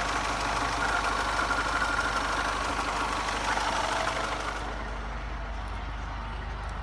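Mercedes-Benz 2.2 CDI four-cylinder diesel engine idling smoothly and steadily. About four and a half seconds in, the sound turns duller, with less of the high clatter and more low hum.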